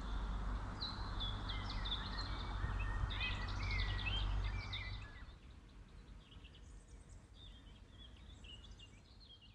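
Several songbirds singing with quick chirps and trills over a steady low background rumble. The rumble stops about five seconds in, and fainter birdsong continues.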